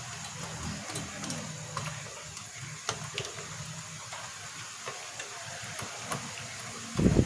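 Faint, scattered clicks and taps of small parts being handled as a projector is reassembled, over a low steady hum.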